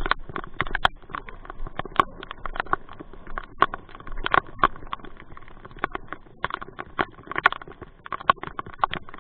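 Raindrops striking a hard surface close to the microphone: a dense, irregular run of sharp ticks and taps, some much louder than others.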